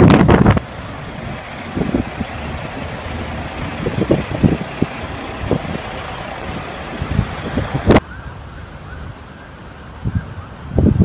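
Wind buffeting the phone's microphone for the first half second, then a steady outdoor rush with scattered low thumps. A sharp click comes about eight seconds in, after which it is quieter.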